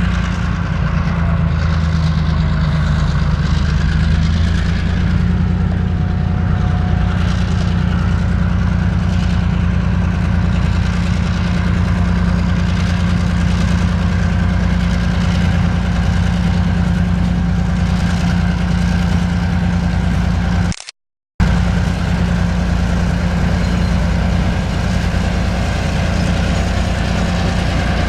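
Diesel locomotive engine idling steadily, with a low, even drone. The sound drops out completely for about half a second roughly three-quarters of the way through, then resumes unchanged.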